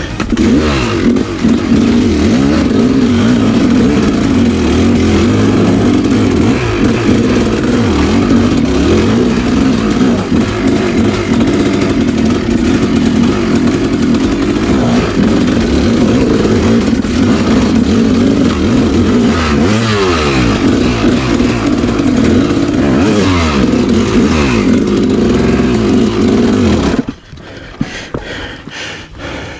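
Dirt bike engine running hard on the trail, its pitch swooping up and down several times as the throttle is worked, then dropping away suddenly near the end.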